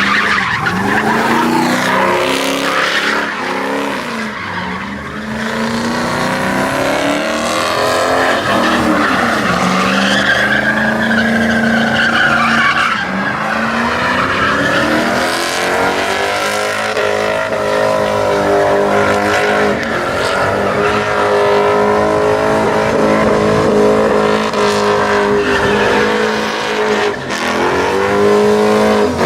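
Truck engine revving hard, its pitch rising and falling again and again, with tyres squealing and skidding in burnouts and donuts.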